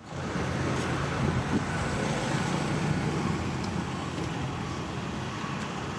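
Steady street traffic noise with the low, even hum of an idling bus engine.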